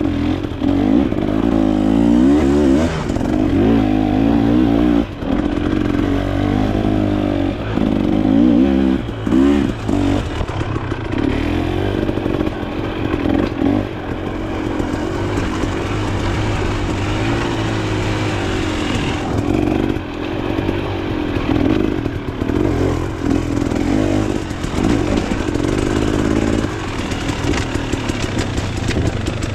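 Dirt bike engine being ridden. Its pitch rises and falls again and again with the throttle over the first ten seconds or so, then it runs steadier.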